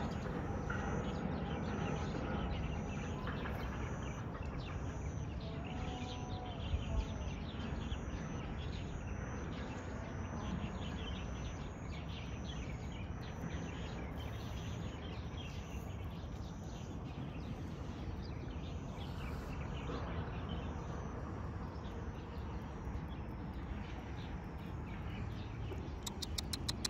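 Steady outdoor background rumble with a small bird giving a high chirp over and over, about every three-quarters of a second, until it stops about two-thirds of the way through. A couple of faint knocks come about a quarter of the way in, and a quick run of high clicks comes near the end.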